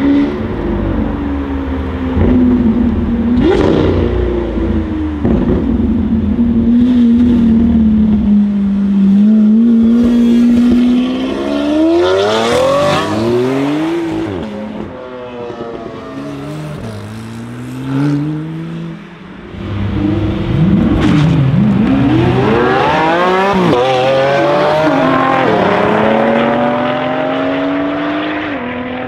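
Lamborghini Aventador's V12 engine running at low, steady revs, then revving hard several times with the pitch climbing and dropping back. A few sudden sharp cracks are heard along the way.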